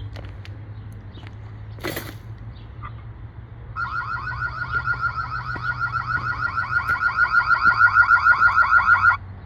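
HARYMOR smart bird feeder's built-in animal-deterrent alarm sounding: a rapid electronic warbling siren of quick repeated rising sweeps, about six a second. It starts about four seconds in, grows louder and cuts off suddenly near the end, over a steady low hum, with a brief burst of noise about two seconds in.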